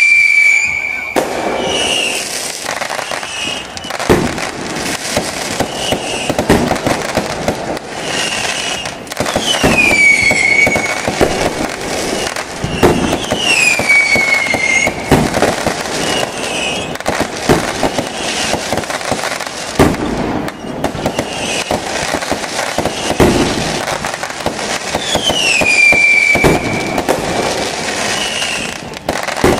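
Fireworks display: a dense run of bangs and crackling, with whistling shells whose whistles fall in pitch, about four long ones along with several shorter ones.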